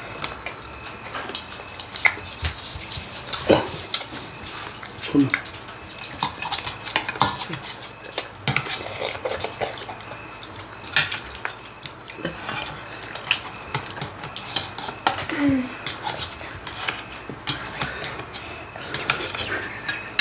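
Chopsticks and spoons clicking and clinking against stainless-steel and ceramic bowls during a meal, in many short, irregular taps, with close-up eating noises as noodles are slurped.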